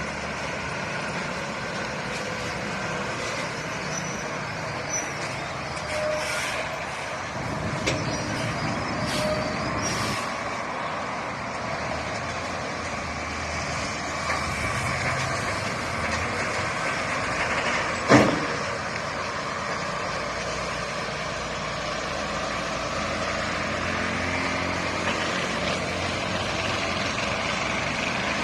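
Trucks and other road traffic passing, engines running steadily throughout, with one sudden sharp burst, the loudest sound, about two thirds of the way through.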